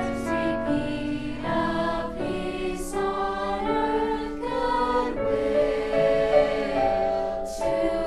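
A choir singing sustained notes in harmony, the chords changing every second or so.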